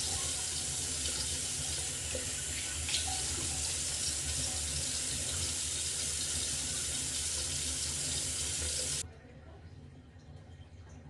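Water running steadily from a tap into a sink, with face-washing splashes, cutting off suddenly about nine seconds in.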